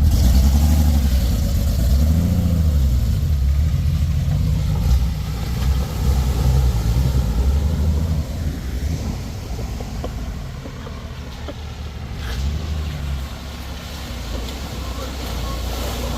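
Old truck's engine heard from inside the cab, revving up and easing off as it works through mud holes on a rough trail, with a couple of knocks from the bumpy ride. It is louder in the first half and settles down after about eight seconds.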